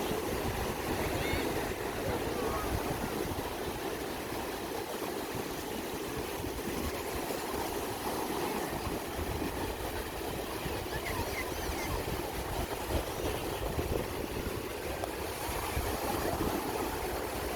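Sea surf washing on a beach with wind buffeting the microphone, and faint distant voices.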